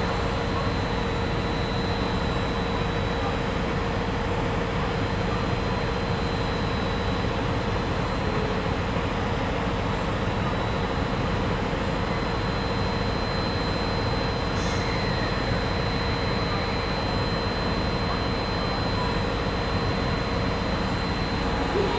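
Steady rumble of a train at a station, with a constant thin high whine and a lower steady hum, and a brief click about fifteen seconds in.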